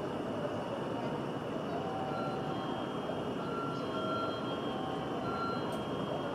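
Steady rushing rumble of a Tokaido Shinkansen train at the station platform, with a thin high whine held throughout. A few short, faint tones come in from about two seconds on.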